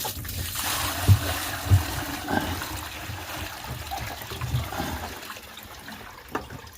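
Water poured into a poultry waterer, a splashing trickle that tapers off over a few seconds. Two dull knocks, the loudest sounds, come about a second in and just under two seconds in.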